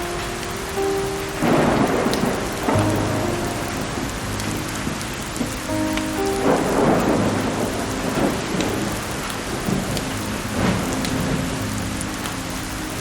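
Steady heavy rain with thunder rumbling and cracking several times, loudest about a second and a half in and again about six and a half seconds in. Soft sustained music notes sit low underneath.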